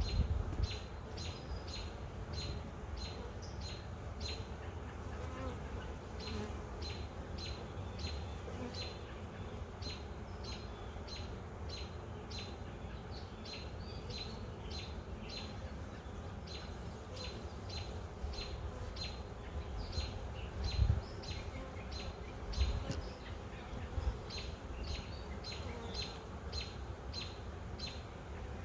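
Honey bees buzzing steadily around an open hive, with a high chirp repeating about two to three times a second in long runs and a couple of soft knocks about two-thirds of the way through.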